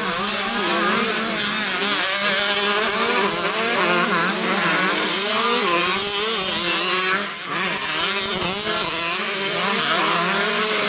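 Several 125cc two-stroke motocross bikes running together, their engines revving up and down continuously.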